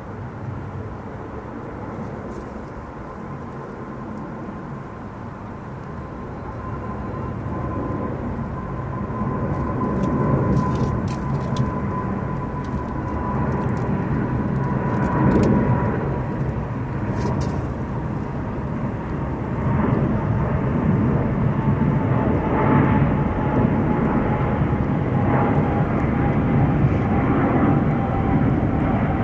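Jet airliner's engines passing, a rumble that grows steadily louder, with a whine near the top that slowly falls in pitch.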